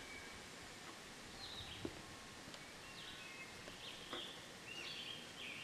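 Faint birdsong: short, high chirps repeated from about a second in, over a quiet outdoor background, with a couple of faint ticks.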